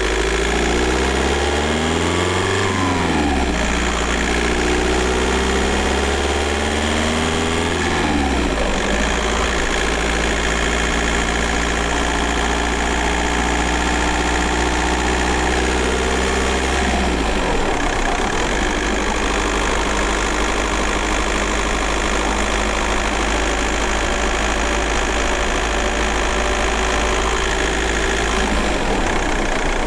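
VW Golf 4 1.9 TDI four-cylinder turbodiesel engine heard from inside the car. Its note rises and falls during the first few seconds, drops about eight seconds in, then holds steady, with another change in pitch about seventeen seconds in.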